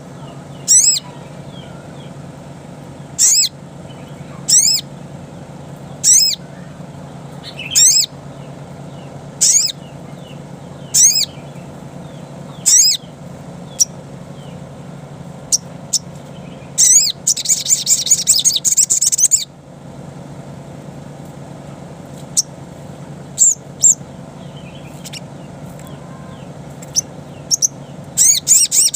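Little spiderhunter (sogok ontong) calling: single sharp, high chirps sweeping downward about every one and a half seconds, then a fast chattering trill about 17 seconds in lasting two seconds, and another starting near the end. A steady low hum runs underneath.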